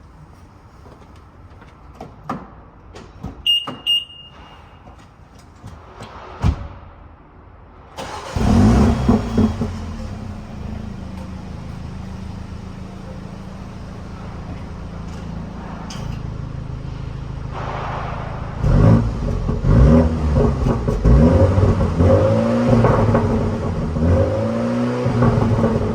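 A few clicks and a short beep, then about eight seconds in the 2023 Mini Cooper Countryman JCW's turbocharged 2.0-litre four-cylinder starts with a loud flare and settles to a steady idle. From about nineteen seconds it is revved in repeated blips, the pitch rising and falling, through the exhaust.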